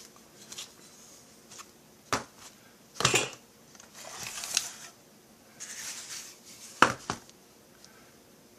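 A few sharp metallic clinks of tools and metal parts being handled on a workbench, with softer scraping and rustling in between.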